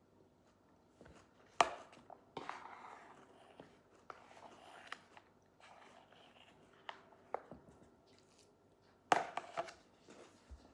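A person eating close to the microphone: crunching and chewing, with sharp clicks about one and a half seconds in and again near the end.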